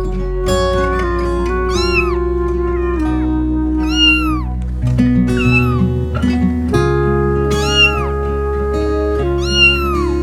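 Cat meows, about five short rising-then-falling calls, over steady background music.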